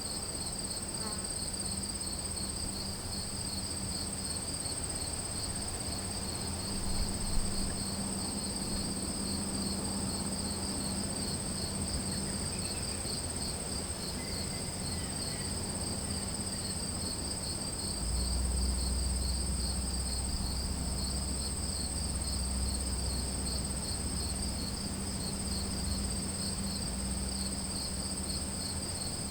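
Chorus of crickets and other insects: a steady high-pitched trill together with a lower, rapidly pulsing chirping, both continuous throughout. A low rumble joins in and grows louder about two-thirds of the way through.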